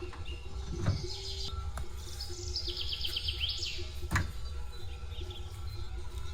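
A songbird singing a fast, high trill lasting about a second, with a few fainter chirps before it. Two soft knocks sound, one about a second in and one about four seconds in.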